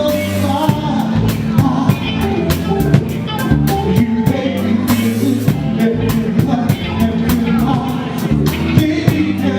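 Live soul band playing, with a drum kit keeping a steady beat over bass, keyboards and guitar.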